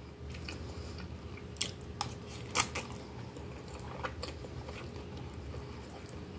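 Close-up chewing and mouth sounds of a person eating baked instant noodles with cheese and sausage, with a few short sharp clicks and smacks, the loudest about two and a half seconds in.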